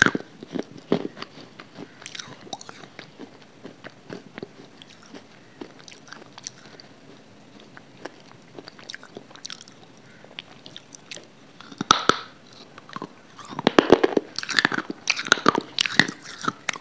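Close-miked biting and chewing of hard, dry white pieces: crisp crunches at the start, quieter chewing clicks through the middle, a bite about twelve seconds in, then dense crunching near the end.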